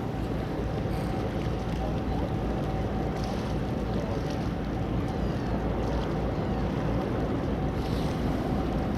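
Steady low drone of ship engines carrying across the water, with a thin steady hum and wind on the microphone.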